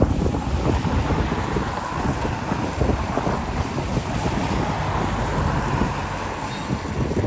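Wind buffeting the microphone: a steady rumbling roar with irregular gusty thumps in the low end.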